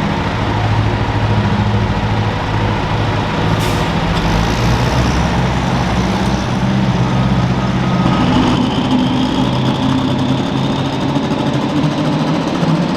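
Super stock pulling tractor's turbocharged diesel engine running loud and steady, its pitch stepping up about two-thirds of the way through, with a faint high whine rising slowly after that.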